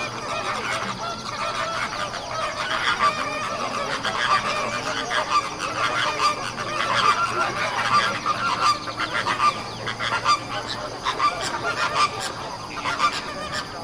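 A dense flock of birds calling over one another without pause, many short calls overlapping.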